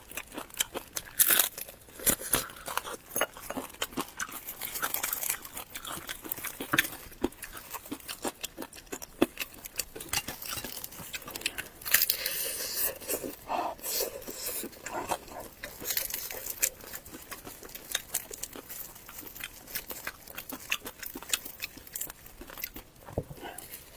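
Close-miked eating sounds: food being bitten, crunched and chewed, with many irregular sharp clicks and wet mouth smacks.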